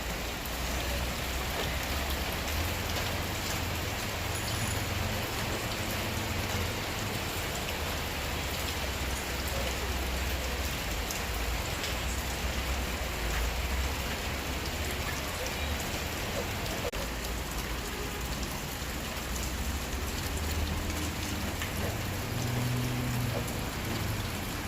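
Steady rain falling, an even continuous patter of drops.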